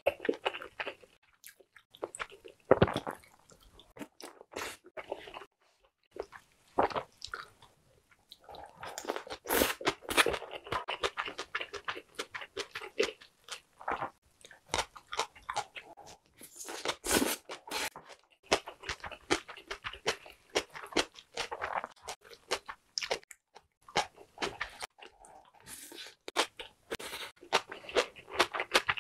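Close-miked eating: wet chewing and biting of stew-soaked pancakes, dumplings and crunchy raw-radish bibimbap, with scattered sharp clicks of a wooden spoon against the pan and bowl.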